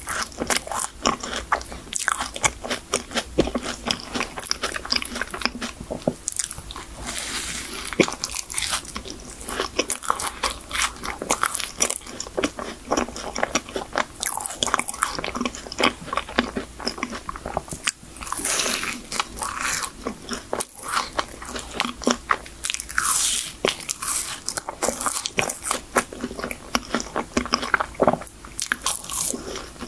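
Close-miked biting and chewing of a chocolate cream puff (Hershey chocolate crème choux) with a crisp, sugar-dusted shell: many irregular crisp crunches and mouth sounds, in uneven bursts.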